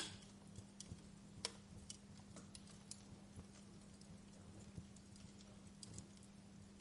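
Wood fire crackling: scattered sharp pops and ticks at irregular intervals, the loudest right at the start and another about a second and a half in, over a faint steady low hum.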